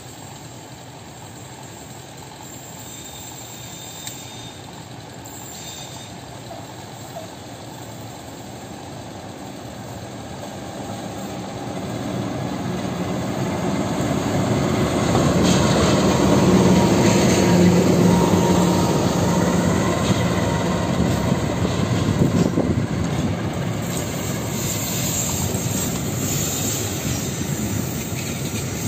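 Passenger train hauled by a KAI CC206 diesel-electric locomotive, growing louder as it approaches. The locomotive's engine is loudest about halfway through as it passes close by, then the carriages keep rumbling past on the rails.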